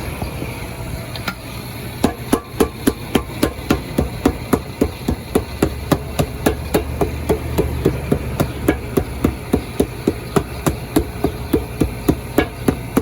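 Shoemaker's hammer striking a freshly glued aircraft-tire rubber sole onto a shoe in rapid, even blows, about four a second, starting about two seconds in. This is the pounding that presses the sole down so the cement grips.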